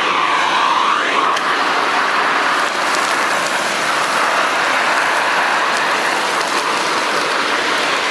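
Festool CTM 55 dust extractor running with a steady suction noise. In the first second or so, a whistling tone dips and rises over it.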